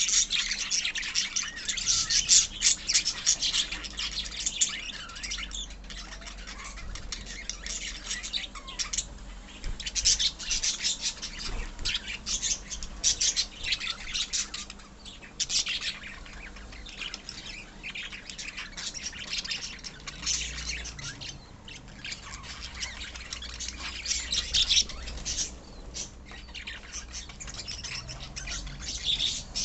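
A colony of small pet parrots, lovebirds and budgerigars, chattering with rapid high-pitched chirps and squawks. Many birds call at once, in loud flurries, the busiest at the start and about halfway through, with thinner chatter between.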